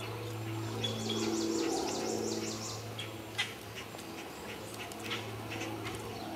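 A bird calling with a fast trill of repeated high, falling notes from about one second in, over a steady low hum, with a few soft thuds from a trotting horse's hooves on arena sand.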